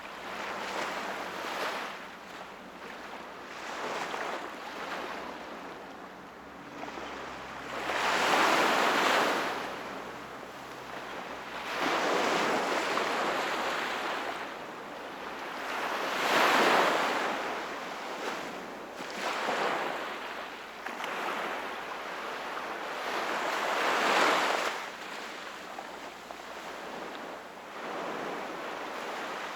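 Sea waves breaking and washing on the shore, surging every few seconds, with the biggest breakers a third, a half and three quarters of the way in.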